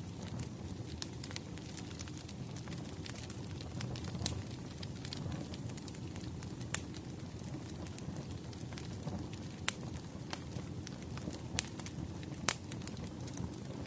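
Wood fire crackling: a steady low rumble of burning logs with frequent small snaps and a handful of louder pops.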